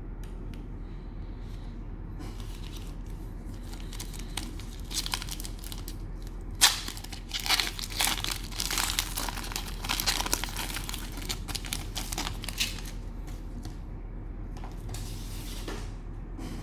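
Cellophane wrapper of a trading-card cello pack being torn open and crinkled, in irregular bursts of crackling that are densest in the middle, with a sharp snap a little before the busiest part.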